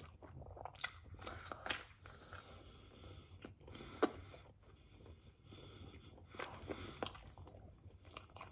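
Pizza being bitten and chewed close to the microphone, with irregular crunches and clicks; a sharp click about four seconds in is the loudest.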